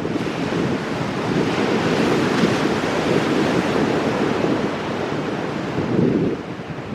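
Ocean surf breaking on rocks, a continuous wash of white water that swells around the middle and again near the end, then eases. Wind buffets the microphone.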